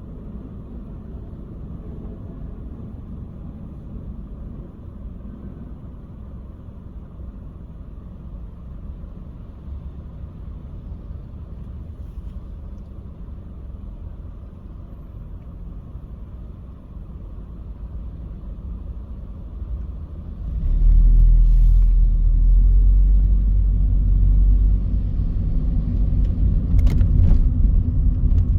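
Car driving on city roads: a steady low rumble of engine and road noise, which becomes much louder about three quarters of the way through and stays loud.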